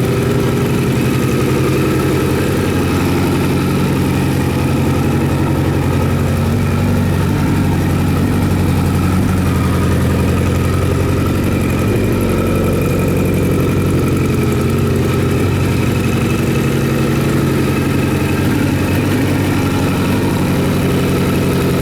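Kawasaki Z1000J motorcycle's air-cooled inline-four engine idling steadily.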